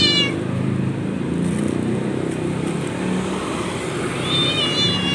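A cat meowing: a high-pitched meow fading out just after the start and another near the end, over a steady low engine rumble of traffic.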